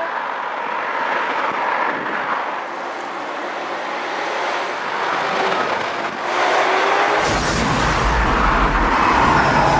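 A train passing at speed, a steady rushing noise of wheels on rail. About seven seconds in, a much louder, deeper sound cuts in suddenly.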